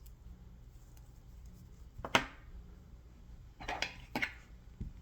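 A sharp click about two seconds in, then a quick cluster of lighter clicks and taps near four seconds: small fly-tying tools and materials being picked up and set down.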